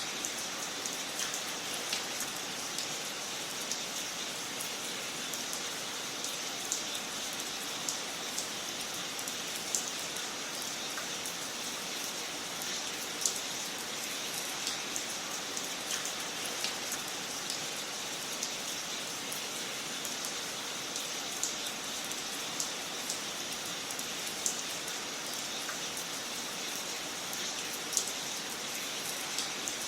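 Wood fire in a fireplace crackling: a steady hiss with irregular sharp pops and snaps scattered throughout.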